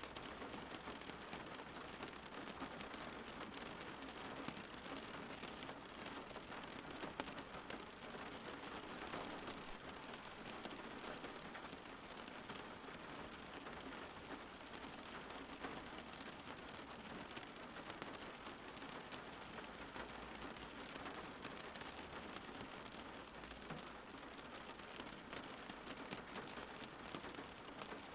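Steady rain falling on a surface, an even hiss with scattered drops.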